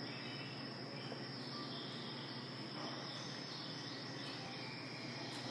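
Steady high-pitched insect chorus droning without a break, over a low steady hum.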